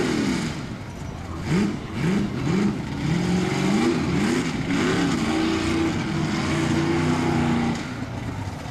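Mega truck engine revving in quick rises and falls, then held at high revs for several seconds before easing off near the end.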